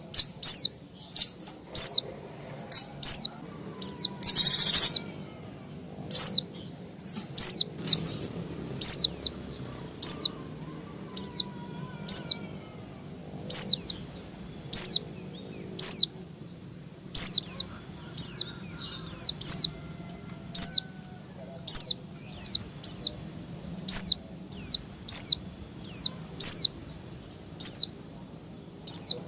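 White-eye (pleci) giving sharp, high call notes that sweep downward, about one a second and sometimes in quick pairs, with one longer harsh rasp about four seconds in. These are the agitated 'ribut' calls used to lure wild white-eyes.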